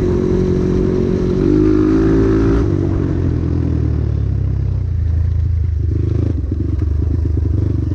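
Dirt bike engine running under throttle while being ridden. It revs up about a second and a half in, then drops back to a lower, steadier pull.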